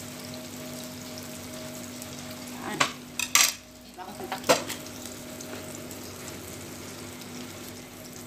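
Squash-blossom and egg omelette frying in a pan on a gas stove, a steady sizzle with a low hum beneath. A few sharp clacks of utensils or dishes stand out around the middle.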